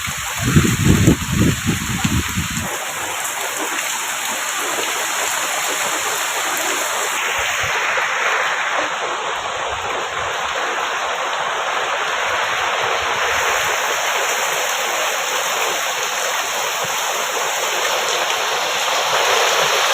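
Heavy rain falling in a steady, even hiss, with low rumbling in the first couple of seconds.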